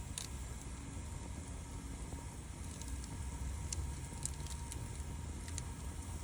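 Wood fire crackling, with a handful of sharp pops over a steady low rumble.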